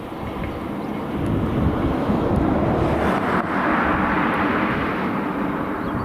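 Freight train passing close by: a rushing rolling noise that swells and peaks about halfway through, with a steady low hum underneath.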